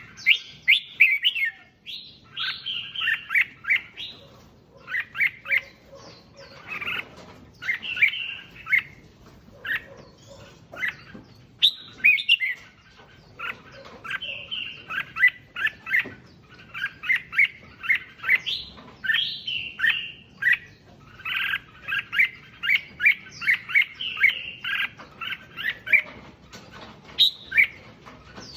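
Red-whiskered bulbul singing: quick phrases of short chirping notes, one phrase after another with brief pauses between them.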